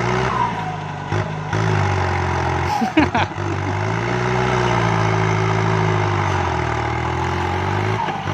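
Kubota MU5702 tractor's diesel engine running steadily while pushing dirt, its note dipping and recovering as the load changes. A brief cluster of sharp sounds comes about three seconds in.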